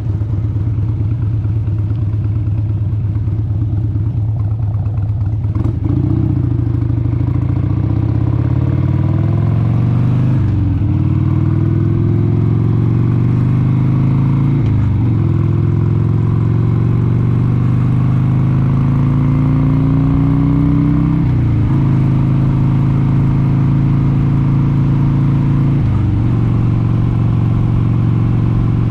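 1996 Harley-Davidson Sportster 883's air-cooled Evolution V-twin engine and exhaust, heard while riding. It runs steadily for about six seconds, then opens up and accelerates: the pitch climbs through each gear and drops back at four upshifts. After that it holds a steady cruise.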